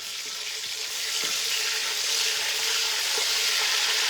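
Fish frying in hot red palm oil: a steady hissing sizzle that grows louder about a second in, with a few faint taps.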